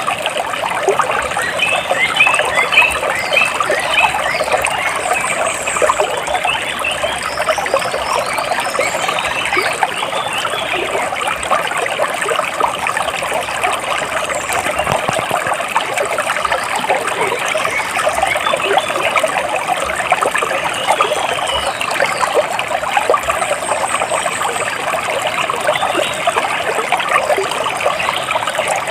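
Water splashing and trickling steadily, with birds chirping now and then over it.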